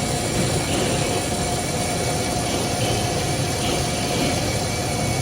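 Metal lathe running steadily: a continuous machine drone with a couple of steady whining tones over it.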